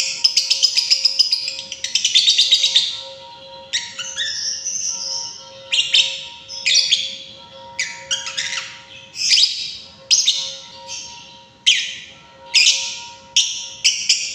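A lovebird chirping in rapid, shrill runs of chatter, each lasting up to about a second with short breaks between: the long chattering song that lovebird keepers call ngekek.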